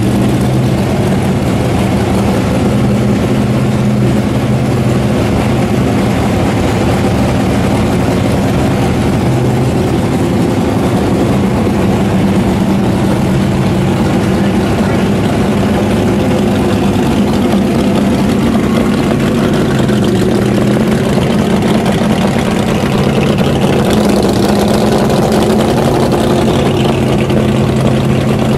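1965 Plymouth A990's 426 Hemi V8 drag-race engine idling loudly and steadily through its exhaust.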